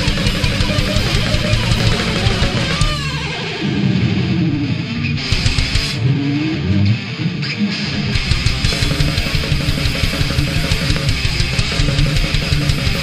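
Instrumental section of a thrash/speed metal song: distorted electric guitars, bass and fast drums. About three seconds in, the drums and low end drop away while a guitar plays sliding, bending notes, and the full band comes back in about eight seconds in.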